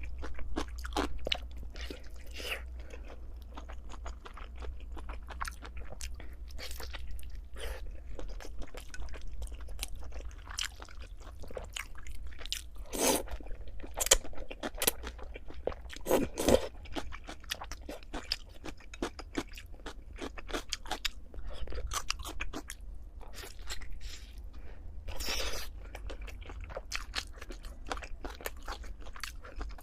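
Close-miked eating: steady chewing with crisp crunching bites now and then, the loudest crunches around the middle. A low steady hum lies underneath.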